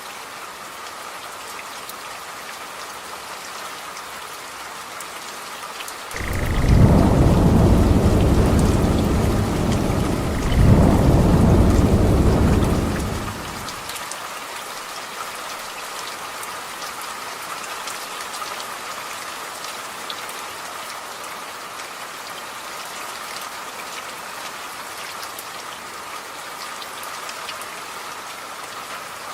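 Steady rain falling. About six seconds in comes a long rolling rumble of thunder, loud and deep, in two surges lasting about seven seconds in all.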